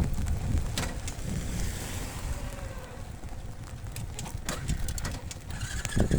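Motorcycle engine running low, with wind buffeting the microphone; it grows louder near the end.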